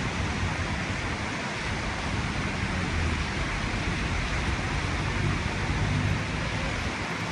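Steady city road traffic: vehicle engines running and tyres on a rain-wet road, with low engine hum swelling and easing as vehicles pass.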